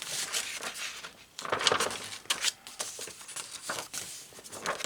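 Paper rustling and crinkling as the pages of a handmade ring-bound paper journal are handled and turned, with a few sharp clicks and taps.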